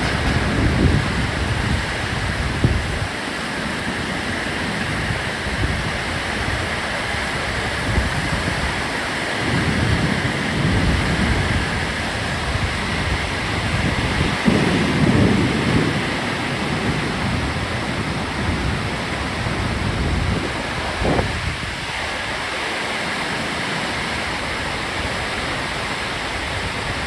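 Heavy rain falling in a steady hiss, with low rumbles swelling and fading several times and a short sharp crack about two-thirds of the way through.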